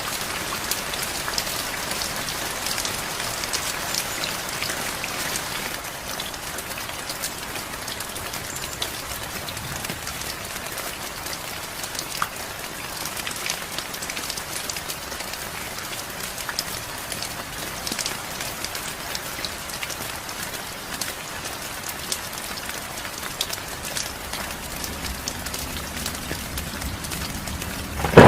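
Steady heavy rain falling, with scattered individual drops ticking sharply; a little heavier for the first several seconds, then even.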